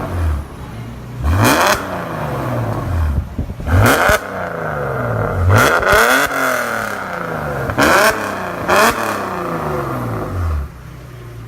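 BMW E39 528i's straight-six being blipped several times, each rev rising quickly and falling back to idle, heard through an exhaust whose middle silencer has been cut out and replaced by a 51 mm stainless X-pipe with aftermarket tailpipes, which raises the exhaust note slightly. It settles to a steady idle near the end.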